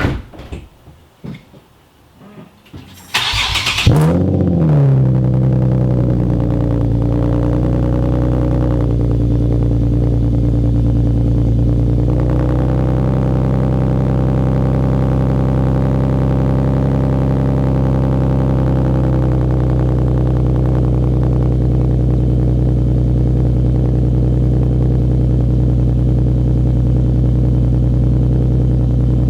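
Nissan 370Z's 3.7-litre V6 cranked by the starter about three seconds in, catching with a quick rev flare, then running at a fast idle through test pipes and a single-exit race exhaust. The idle steps down a few times as it settles. A few faint clicks come before the start.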